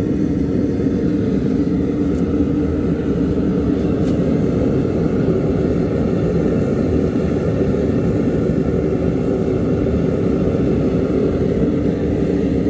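Frosty T-style propane burner firing into a small DIY forge with a steady, loud rushing sound and a low, even hum.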